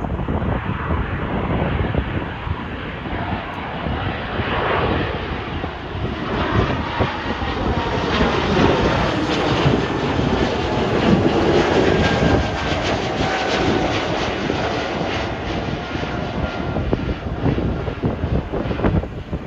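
Wide-body jet airliner's engines passing close by, the noise building to its loudest through the middle and easing off towards the end, with tones gliding in pitch as it goes past.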